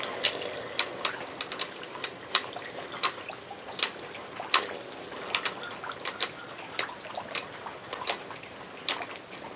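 Two Beyblade spinning tops battling in a stadium with shallow water in it: a steady watery hiss, broken by many sharp, irregular clicks as the tops strike each other and the stadium wall.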